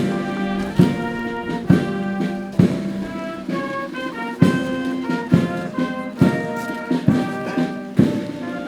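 Slow brass band music: sustained brass chords over a heavy drum beat struck about once a second.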